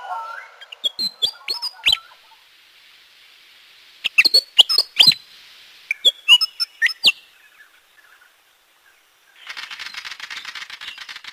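Bird calls: three bursts of sharp, sweeping chirps a couple of seconds apart. A rapid rattling starts about nine seconds in.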